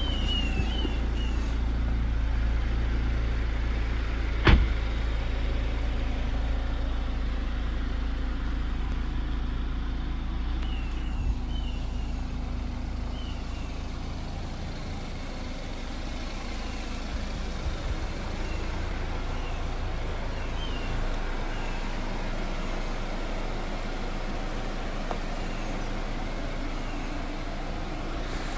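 2015 BMW 228i's turbocharged 2.0-litre four-cylinder idling steadily just after a cold start, on a raised cold idle that slowly eases and drops a step about twenty seconds in. A single sharp click about four and a half seconds in.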